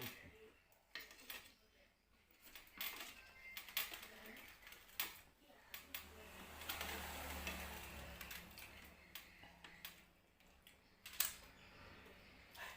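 Cutlery clinking and scraping against a plate while eating, in faint, scattered sharp clicks.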